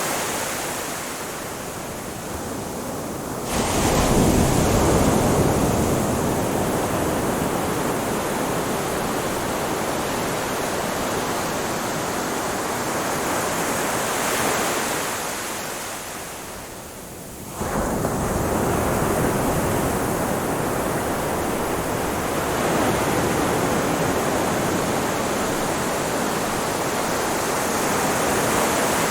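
Ocean surf washing on a beach: a continuous hiss of water, with two waves breaking in sudden louder surges about fourteen seconds apart, each after a brief lull as the previous wave draws back.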